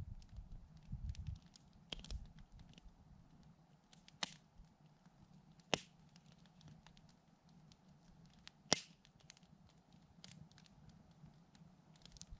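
Wood campfire crackling quietly, with a few sharp pops, the loudest about three-quarters of the way through. A low rumble in the first second or so.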